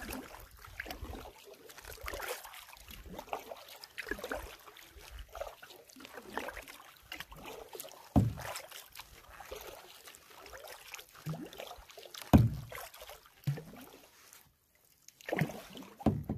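Canoe paddling: the paddle blade dipping and pulling through the water stroke after stroke, with water trickling off it. Two louder low thumps come about eight and twelve seconds in.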